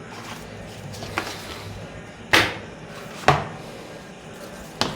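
Pages of a children's book being turned and handled, making about four short, sharp paper flips and slaps; the loudest comes a little past two seconds in.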